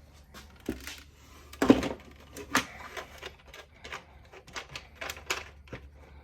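Irregular plastic clicks and taps from the opened Sax-A-Boom toy saxophone being handled, like keys being typed, with one heavier knock a little under two seconds in.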